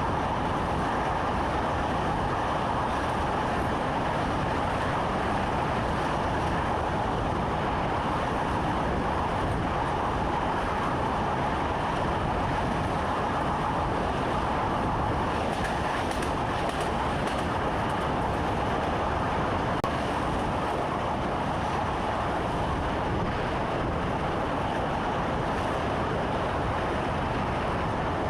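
Train running along the track, heard from inside the driver's cab: a steady rumble and rushing noise with faint rail clicks now and then.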